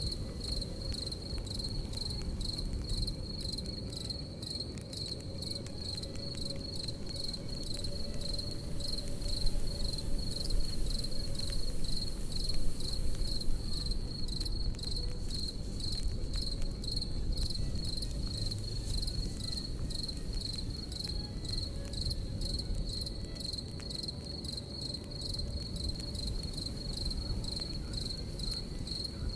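Crickets chirping in a steady, fast, even pulse at a high pitch, over the low rumble and faint crackle of a campfire.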